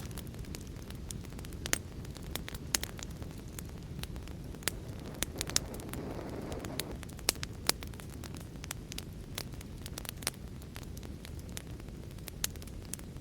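Fire in a fireplace crackling, with irregular sharp pops and snaps over a steady low rumble of burning. A soft rush swells and fades about midway.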